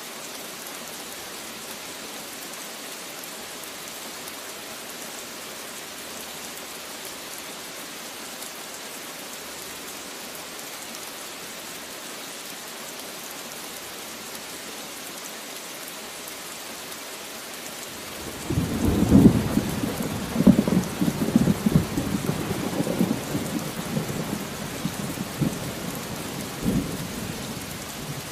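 Steady rain falling, with a thunderclap rumbling in about two-thirds of the way through, crackling and rolling for several seconds before fading near the end.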